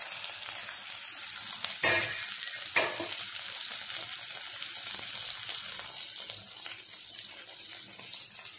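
Chopped tomatoes sizzling in hot oil in a steel kadai with green chilli and curry leaves, a steady hiss. Two sharp knocks come about two and three seconds in, and the sizzle eases a little near the end.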